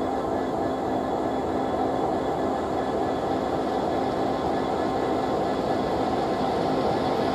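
Diesel locomotive-hauled train running by: a steady drone with a few held engine tones that slowly grows louder.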